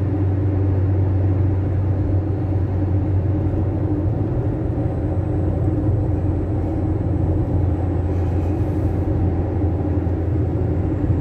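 Fiat Fiorino 1.4 van driving at steady speed, heard from inside the cabin: a steady low engine and road rumble.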